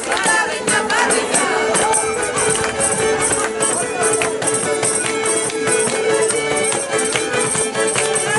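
Lively traditional folk music with a steady shaking percussion beat and a long held note, with voices mixed in.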